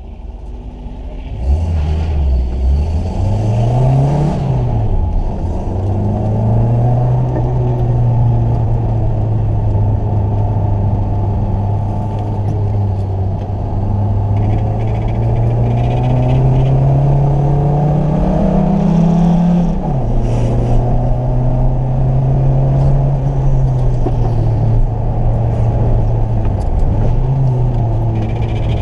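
Renault Twingo's engine heard from inside the cabin, pulling away and driving on track. The revs climb and fall several times, with a long rise that cuts off sharply about twenty seconds in, between stretches of steady running.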